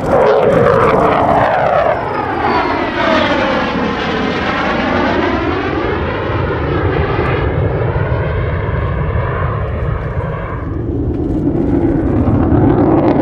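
F-35A Lightning II jet engine running loud as the jet passes, starting abruptly and with a sweeping, phasing tone that falls and then rises again over several seconds.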